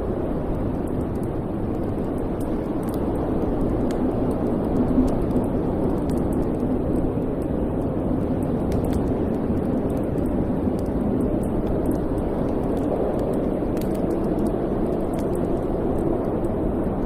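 Wood fire burning in a fireplace: a steady low rush of flame with frequent small crackles and pops scattered through it.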